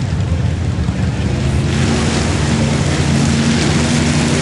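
Mud-bog race truck's engine running hard, with a steady low drone and a rushing noise over it that grows louder and fuller about a second and a half in.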